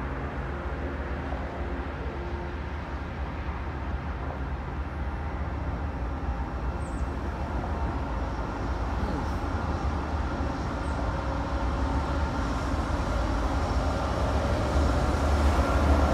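Diesel locomotives of a CSX freight train approaching: a low rumble that grows steadily louder, loudest near the end as the locomotives pass close by.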